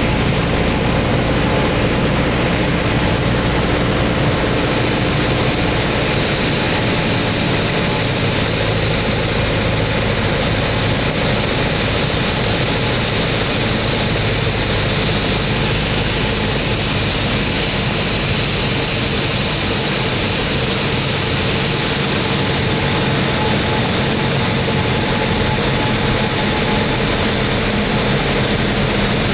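Light propeller aircraft's piston engine running steadily, a continuous drone whose lowest tones ease off about six seconds in.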